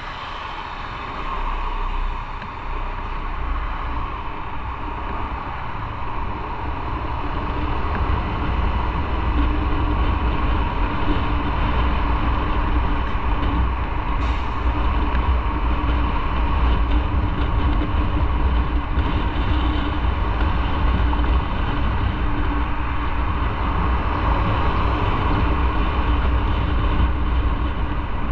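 Motorcycle riding at speed: wind rushing over the microphone with engine and road noise, getting louder over the first several seconds and then holding steady.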